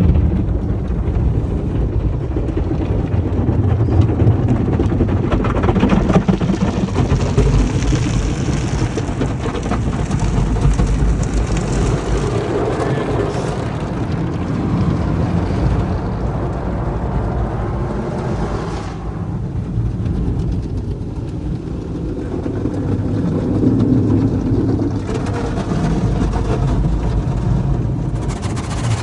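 Drive-through tunnel car wash heard from inside the car: water spray and wash machinery working over the body, with a steady low rumble under a hiss. The hiss eases about two-thirds of the way through and comes back near the end.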